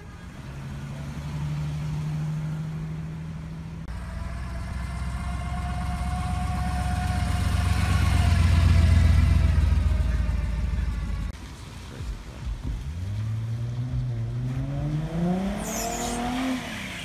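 Car engines passing close one after another. The loudest, around the middle, is a classic Chevrolet El Camino rolling by. After a sudden break, another car accelerates hard, its engine note climbing steadily for a few seconds, with a brief high squeak near the end.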